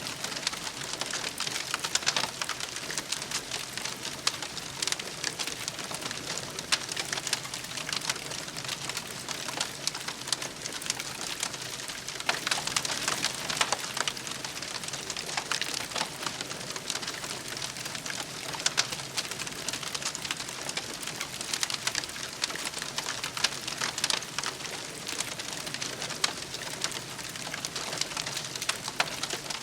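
Campfire crackling steadily, with many small sharp pops and snaps.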